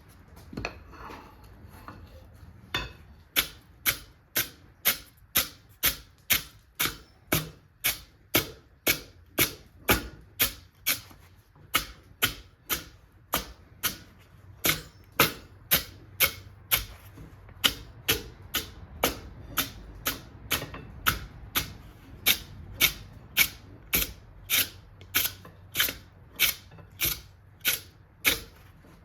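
Hammer blows on hot steel on an anvil, forging a thick round bar: a steady run of sharp strikes, a little under two a second, starting about three seconds in, with two brief pauses.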